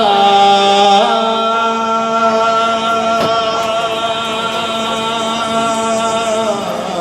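A man chanting one long held vocal note, a drawn-out 'yā', in an Arabic Shia religious recitation. The pitch steps up about a second in, then holds steady until just before the end.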